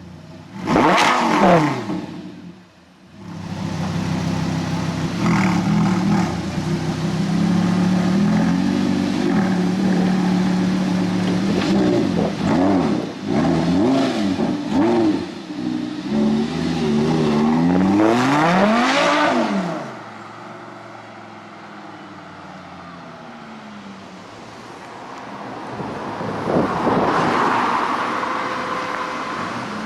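Audi R8 V10 Spyder with a Milltek Super Sport exhaust. The engine idles with a steady note and is revved repeatedly in short throttle blips. About 18 seconds in comes one long high rev that falls back, then the sound goes quieter before another loud swell near the end.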